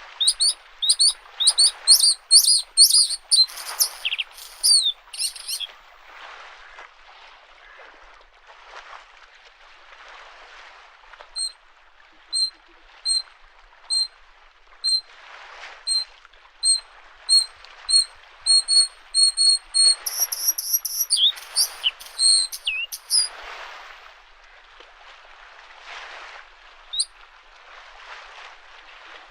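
A bluethroat singing: a fast run of repeated high notes at the start, then after a pause a string of single clear notes that speed up into a more varied phrase. Beneath it, small lake waves wash against the shore in soft swells every couple of seconds.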